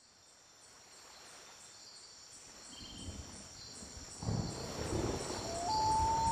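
Insects chirping in a steady high chorus that fades in from near silence; about four seconds in a low rumbling noise joins it, and near the end a short rising whistle-like tone sounds.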